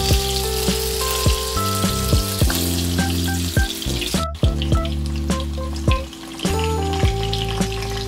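Saba banana pieces frying in shallow oil in a wok, a steady sizzle, under background music with a steady beat and bass notes. Both cut out briefly about four seconds in.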